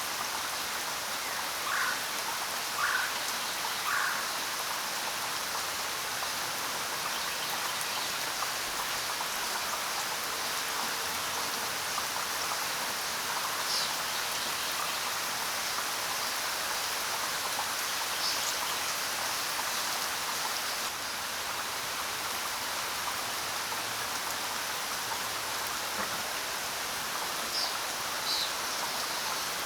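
Steady rain falling, with a few short bird chirps over it: three lower ones in the first few seconds and several higher ones later.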